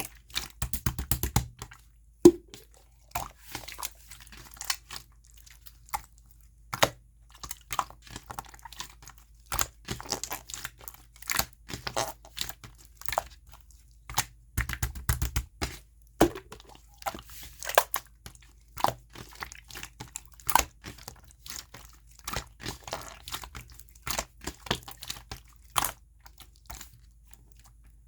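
Clear slime being squeezed, stretched and folded by hand, giving irregular wet clicks and small pops, some in quick clusters.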